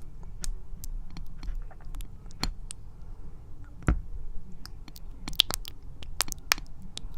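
Scattered sticky clicks and smacks of raw honeycomb and honey being eaten close to the microphone, with a sharper click about four seconds in and a quick run of clicks near the end.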